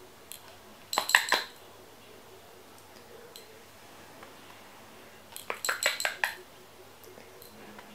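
Metallic clinking in two short bursts of several quick strikes, about a second in and again about five and a half seconds in.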